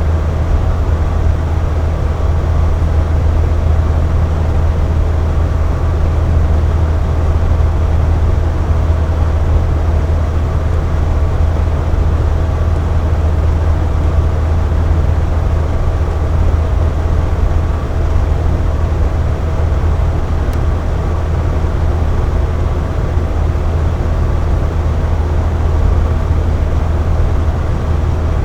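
Air conditioner running: a steady deep hum under an even rush of air, with a couple of faint higher steady tones.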